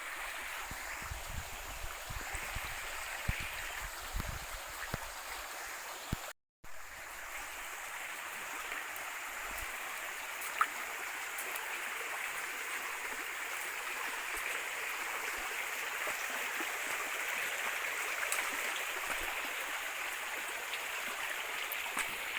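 Steady rush of running water, an even hiss that swells slightly over time, with a few low knocks in the first seconds and a brief dropout about six seconds in.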